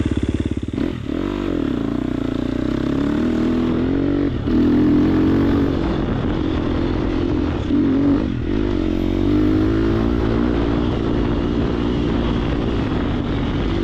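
Triumph TF250X's 249cc single-cylinder four-stroke engine running under load while being ridden off-road, its pitch rising and falling with the throttle and briefly dipping three times, as at gear changes.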